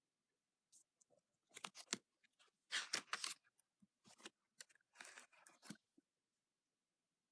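Pages of a paperback picture book being handled and turned: a run of crisp paper rustles and crackles lasting about five seconds.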